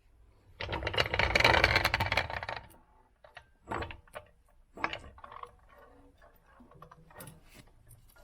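A wrench working a bolt during engine mount removal, a fast run of clicks for about two seconds, then scattered clicks and clinks of metal tools.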